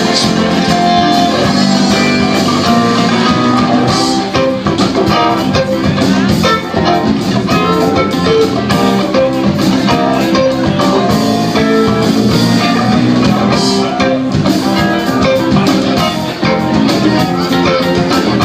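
Live band playing music: guitars over a drum kit.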